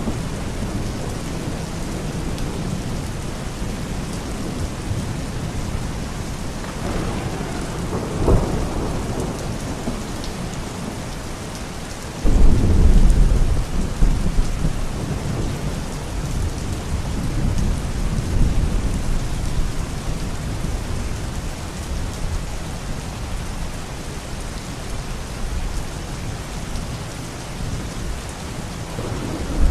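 Steady rain with rolling thunder: low rumbles swell and fade, and a loud, deep thunderclap breaks in suddenly about twelve seconds in and rumbles on for several seconds.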